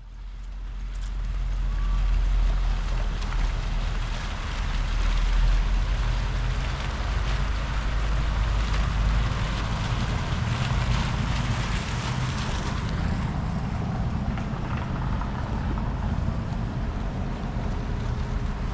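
Outdoor ambience: a steady low rumble with an even hiss over it, building up over the first two seconds.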